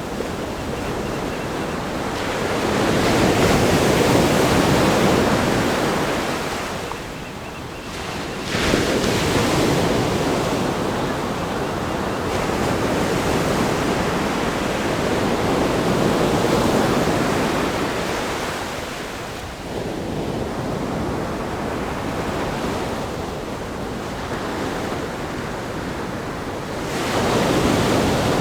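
Ocean waves breaking against a rock groin and washing up the sand, a steady roar of surf that swells and eases as each set comes in, with a sharp crash about a third of the way in. Wind rumbles on the microphone.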